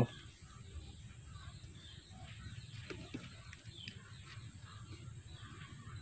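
Faint birds chirping in the background over low room tone, with a few light clicks from handling a battery pack.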